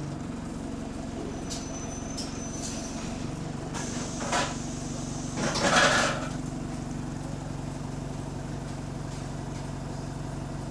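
Bus engine running with a steady hum, on a bus with an exhaust leak. Two short bursts of noise, louder than the hum, come a little before and after the middle.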